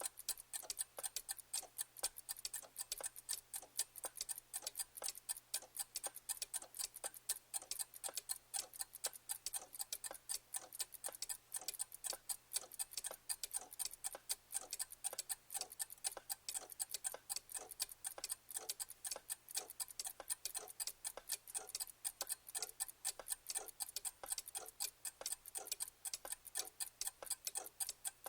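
Clock ticking steadily, a quick even run of sharp ticks several times a second.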